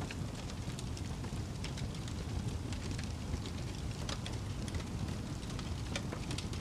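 Wood fire in a fireplace crackling: a steady low rumble of flames with scattered sharp pops and snaps from the burning wood.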